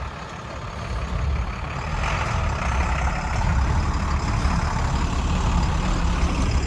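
Garbage truck running with a heavy low rumble, getting louder over the first two or three seconds and then holding steady.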